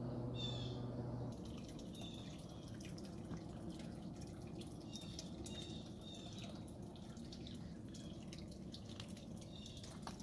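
Birds calling briefly every second or two over a faint patter of dripping water. A low steady hum cuts off about a second in.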